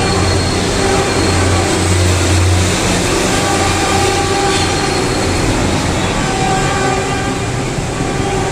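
Diesel train running close by: a steady engine drone and rail noise, with the low engine hum strongest in the first few seconds.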